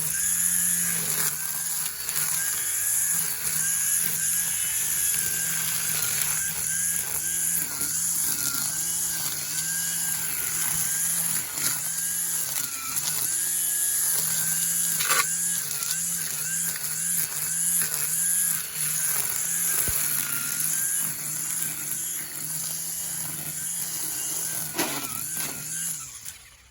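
String trimmer running at high speed, its pitch dipping briefly and recovering again and again as the line cuts through grass, then shutting off just before the end.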